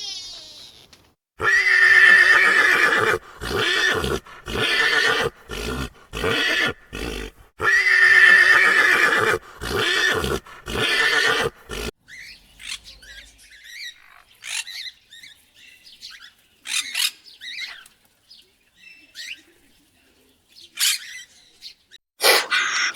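An animal calling loudly over and over, two long drawn-out calls among several shorter ones, then only faint scattered sounds after about twelve seconds.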